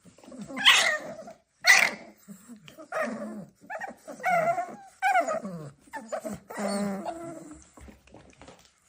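A dog vocalizing: two loud barks about a second apart, then a string of pitched whining calls that slide up and down in pitch.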